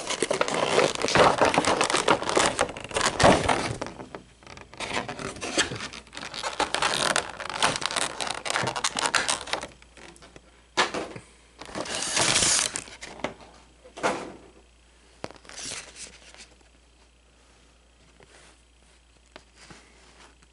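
Cardboard and plastic packaging of a trading-card collection box being handled and pulled apart: irregular bursts of scraping, crinkling and tearing. The bursts are heaviest in the first several seconds, come shorter and sparser after about ten seconds, and die away near the end.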